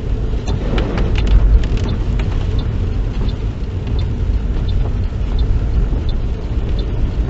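Car driving on a wet road, heard from inside the cabin: steady low road and engine rumble. A light ticking repeats about every two-thirds of a second from a few seconds in.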